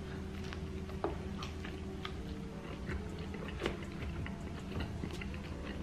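Close mouth sounds of a man chewing a bite of fried jalapeño eggroll: irregular small crunches and wet clicks, one a little louder past the middle.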